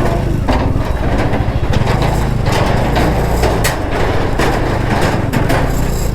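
Motorcycle engine running steadily while the bike jolts over a rough, broken road, with frequent irregular knocks and rattles.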